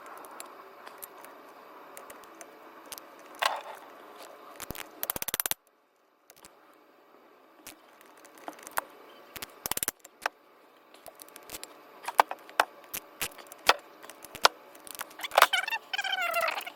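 Hand tools clicking and knocking against metal engine parts, with two short bursts of rapid ratchet-wrench clicking as bolts are snugged down.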